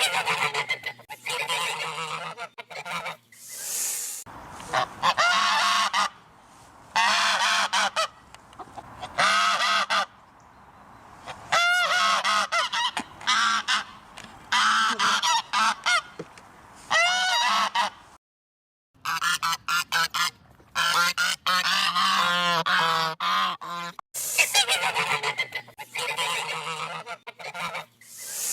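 Geese honking in repeated noisy bouts of a few seconds each, with short pauses between; the sound drops out completely for a moment about two-thirds of the way through.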